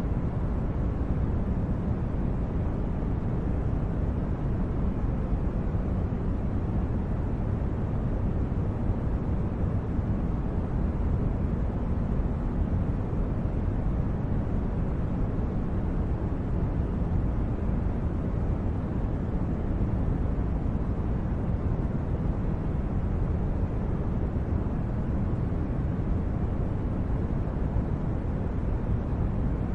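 Steady low, rumbling noise with no pitch, rhythm or separate events, like the brown-noise background laid under sleep recordings.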